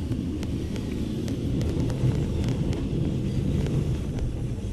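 Steady low rumble of a moving passenger train heard from inside the coach, its wheels running on the rails, with a few light clicks over it.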